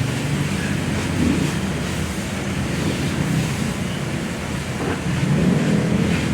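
Steady rushing of water sprayed from a car-wash pressure-washer wand, with a low rumble underneath.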